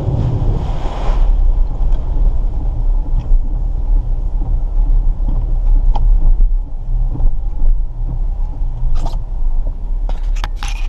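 Jeep engine running as it drives a rough, wet trail, a steady low rumble. A brief rush of noise in the first second and scattered knocks and rattles throughout, bunching up near the end.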